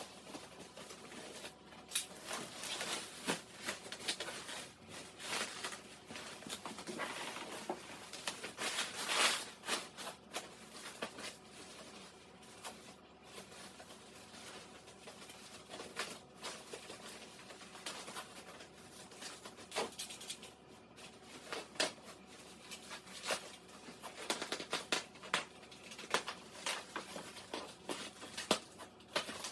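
Irregular rustling, taps and clicks of packaging and parts being handled while unpacking a microwave oven.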